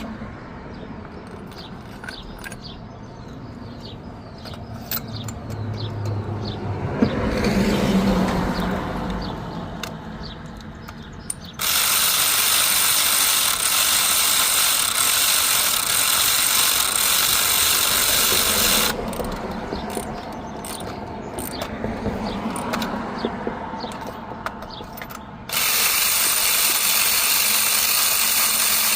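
Ratchet and hand-tool work on a car engine, with scattered clicks. Twice a loud, steady rushing noise starts abruptly, runs for several seconds and cuts off.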